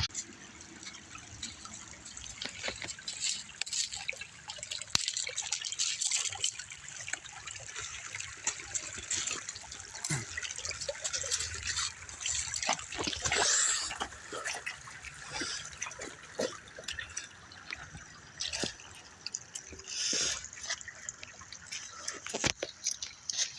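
Small stream trickling and dripping, with scattered short clicks and rustles over it.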